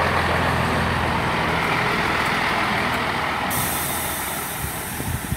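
Class 165 diesel multiple unit pulling into the station, its engine hum fading as it slows. A sudden steady hiss of air starts about three and a half seconds in.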